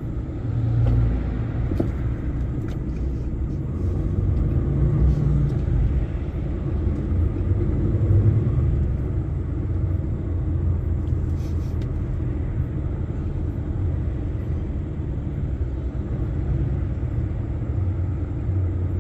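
Heavy truck's engine rumbling low and steady, heard from inside the cab while crawling in a traffic jam.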